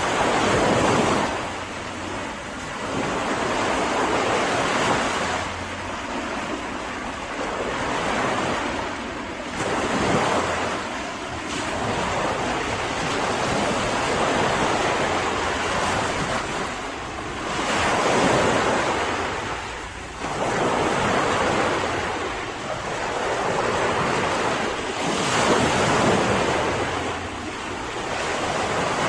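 Mediterranean sea waves breaking and washing onto the shore, the surf swelling and easing every few seconds, with wind buffeting the microphone.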